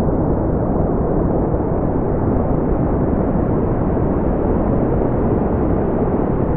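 Steady brown noise: a deep, even rumbling hiss, strongest in the low end and falling away in the highs, with no change.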